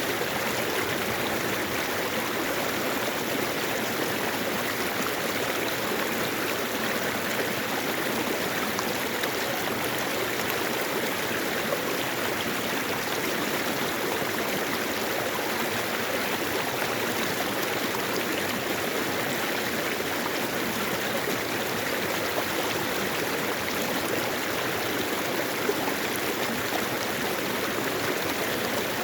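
Mountain stream flowing over rocks, a steady rushing and burbling of water.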